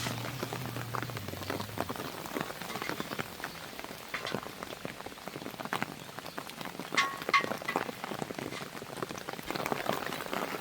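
Rain falling, with many irregular drops tapping on a surface. About seven seconds in there is a short ringing clink, like something metal being knocked.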